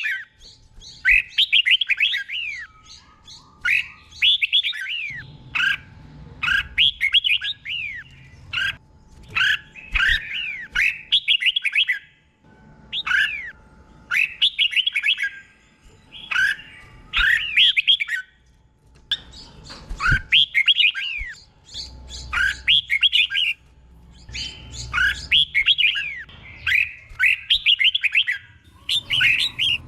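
Red-whiskered bulbul singing in its doubled song style: short phrases of quick, clear whistled notes that slide downward, repeated over and over every second or two with brief pauses between them.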